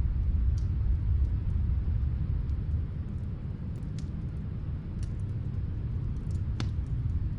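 Low, steady rumble of snowstorm wind, with a few faint crackles from a wood fire; the sharpest crackle comes about six and a half seconds in.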